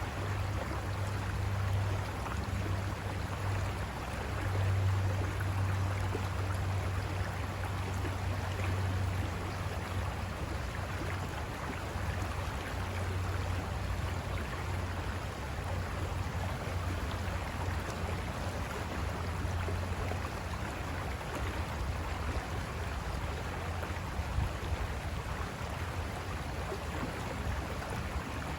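River water rushing over rocks, a steady continuous wash with a low rumble underneath.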